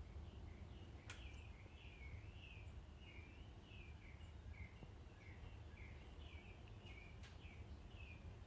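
A bird chirping faintly, a steady run of short sliding notes about two a second, over a low hum, with two sharp clicks about a second in and near the end.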